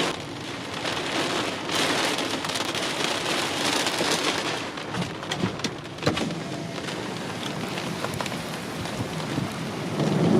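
Heavy thunderstorm rain falling steadily, with a few sharp drop impacts close by about five to six seconds in.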